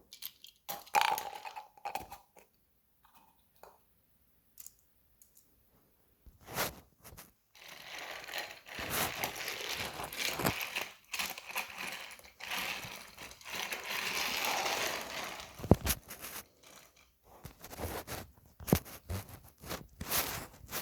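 Toy train running along its track with a rattling, clattering sound for several seconds in the middle. Scattered sharp clicks and knocks come before and after it.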